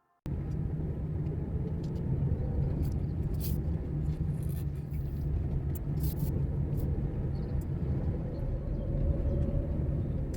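Car driving along: a steady low rumble of engine and road noise that starts abruptly just after the beginning, with a few faint short clicks over it.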